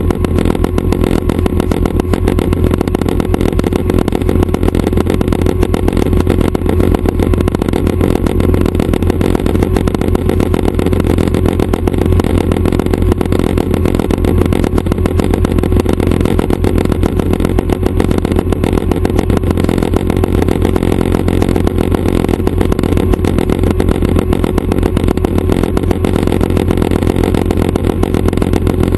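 Schweizer 269 light helicopter's piston engine and rotors running steadily, a loud continuous low drone with a fine rapid pulse and no change in pitch.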